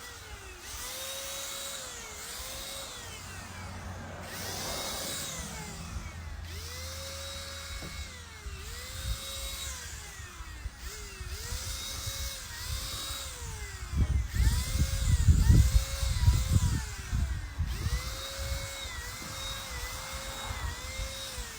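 Cordless handheld paint sprayer running, its motor whine sagging in pitch and jumping back up again and again, roughly once a second. A loud low rumble comes in about two-thirds of the way through.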